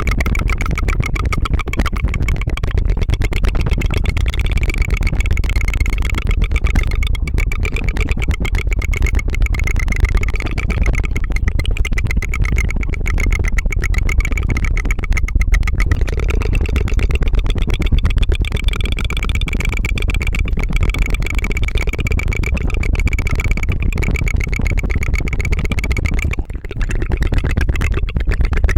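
Rapid tongue fluttering close to the microphone: a continuous fast trill, a buzzing "tu-tu-tu", with a brief break near the end.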